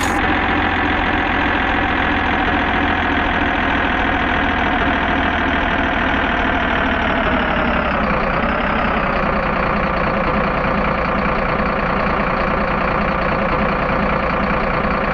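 Truck engine running steadily, its pitch dipping slightly a little past halfway, then cutting off abruptly at the end.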